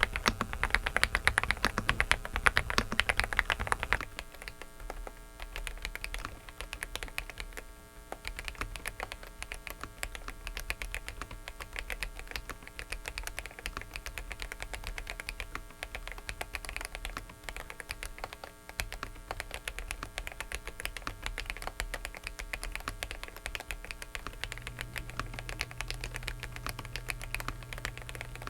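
Fast, continuous typing on a Dareu mechanical keyboard as a switch sound test, louder for the first four seconds and then softer. A steady electrical buzz from a faulty microphone runs underneath, and a low hum joins near the end.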